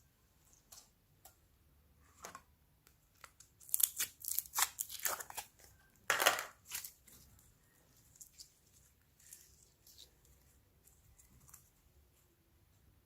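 Slime being worked by hand: sticky clicks, pops and crackles, in a dense run about four seconds in and a loud burst around six seconds.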